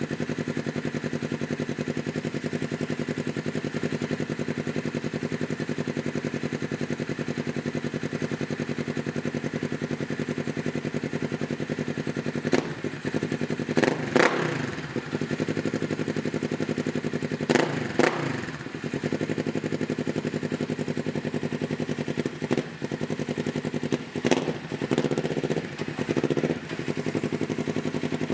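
2012 Polaris RZR XP 900's twin-cylinder engine running through a Looney Tuned dual exhaust, idling steadily, then given a series of short throttle blips from a little under halfway in, each rev rising sharply and dropping back to idle.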